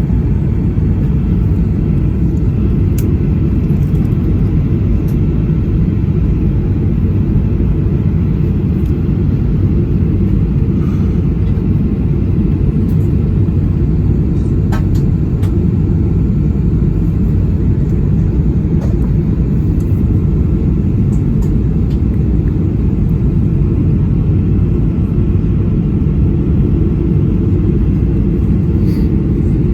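Steady low rumble of a Boeing 737-800's CFM56 engines and airflow, heard inside the passenger cabin, with a few faint clicks.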